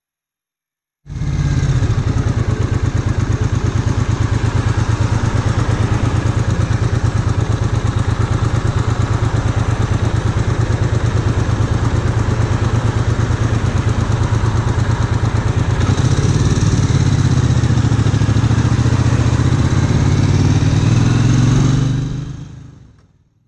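Triumph Bonneville America's air-cooled parallel-twin engine running under way, a steady dense firing beat. It cuts in suddenly about a second in and fades out near the end.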